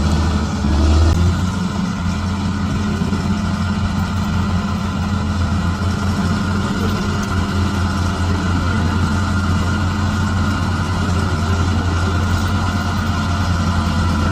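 Bulldozer's diesel engine running steadily under load, with a brief swell in loudness about a second in.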